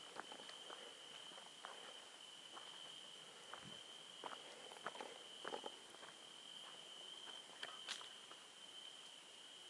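Soft, irregular footsteps crunching on the forest floor at night over a steady, high-pitched insect song, probably crickets.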